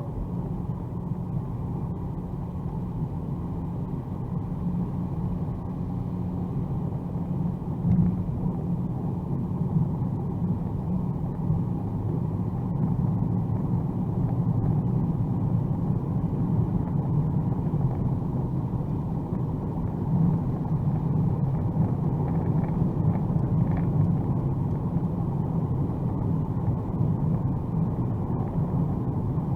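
Inside the cabin of a 2021 Mercedes-AMG A35 4Matic+ driving at speed: a steady low rumble of road, tyre and engine noise, growing a little louder about twelve seconds in.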